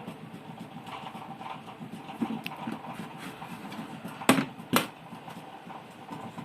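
Two sharp clicks about half a second apart, over a faint steady background with soft irregular tapping.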